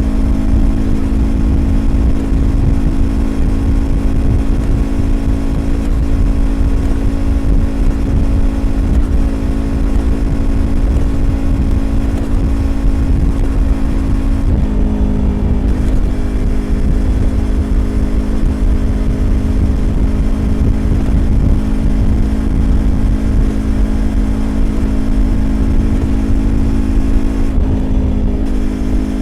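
A Yamaha YZF-R25's 249 cc parallel-twin, breathing through an aftermarket Prunus exhaust, running at steady cruising revs under road and wind rumble. Its note eases off briefly twice, about halfway through and near the end, and settles at slightly lower revs each time.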